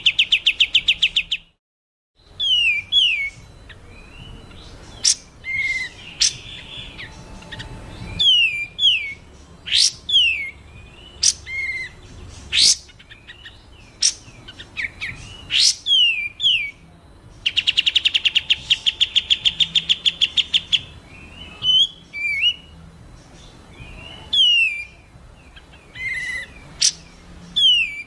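Songbird calls from several species mixed together: a fast, even trill of rapidly repeated notes at the start and again about two-thirds through, with many short downslurred whistles and quick sharp upsweeps in between. The sound cuts out completely for about half a second near the start.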